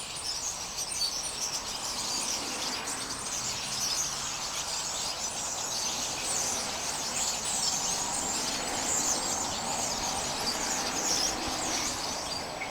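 A flock of birds calling constantly: a dense, overlapping chorus of high chirps and squawks.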